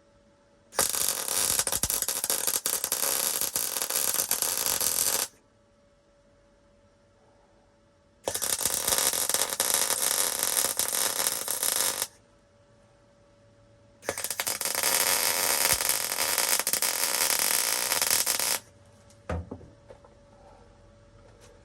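MIG welder with .025 wire laying three welds on thin sheet-steel floor-pan patches, each a few seconds of steady arc crackle and sizzle with short pauses between. A short thump follows near the end.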